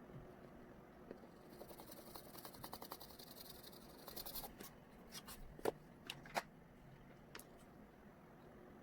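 Oil pastel scratching across paper in quick short strokes for a few seconds, then a handful of sharp clicks and taps.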